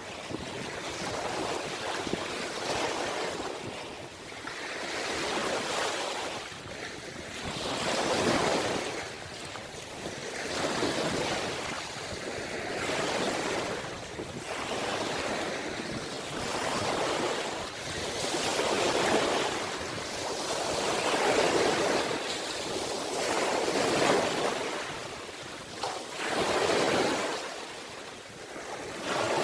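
Ocean waves breaking and washing in, a steady surf that swells and ebbs about every two to three seconds.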